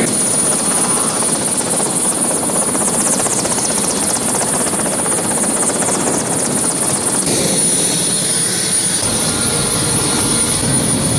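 Helicopter engine and rotor running steadily and loudly, with a high, steady whine over the noise.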